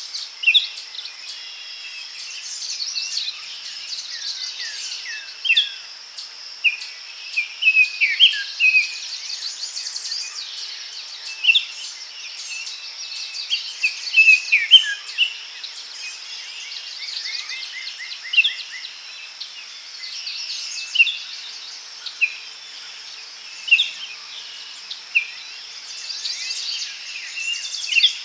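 Daytime forest ambience: several birds singing and calling in short chirps and falling whistles over a steady high insect drone.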